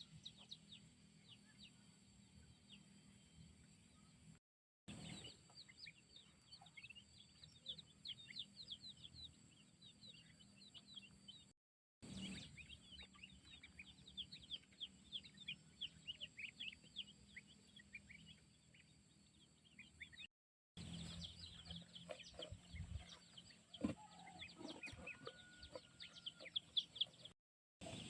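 Chickens calling: many quick, high, falling chirps overlapping one another, with a few lower sounds near the end. The sound drops out four times in short silent gaps.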